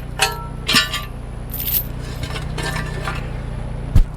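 Light metallic clinking in a few short bursts over a steady low engine hum, with one heavy knock near the end.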